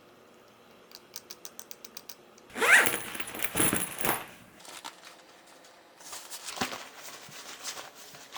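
A quick run of light clicks, then a loud clatter of small hard objects with a short rising scrape about two and a half seconds in. More scattered clicking and rustling follows near the end.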